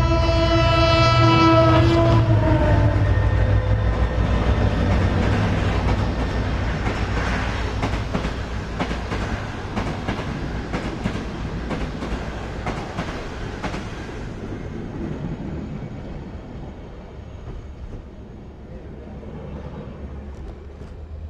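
GT diesel-electric locomotive passing with a passenger train: its horn sounds and ends about two seconds in, dropping in pitch as the locomotive goes by. Then the engine rumbles and the coaches' wheels clatter over the rail joints in quick clicks, the sound fading as the train moves away.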